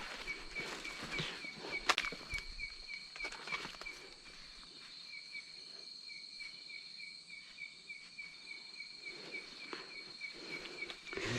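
Night insects calling: a steady high trill with a pulsing chirp repeating about three times a second over it. A few rustles and knocks in the first few seconds, then the insect calls alone.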